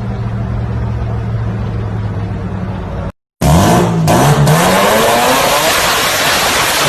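A car engine running with a steady low drone, then, after an abrupt cut, a car revving hard and loudly, the engine pitch dipping and then climbing under heavy exhaust noise.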